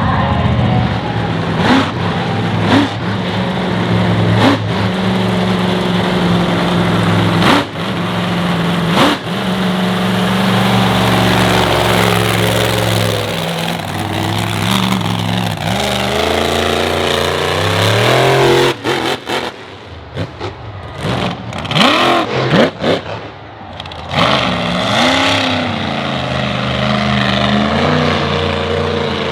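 Monster truck engine running hard at high revs, then revving up and down in sweeps and blips in the second half, with several sharp knocks among it.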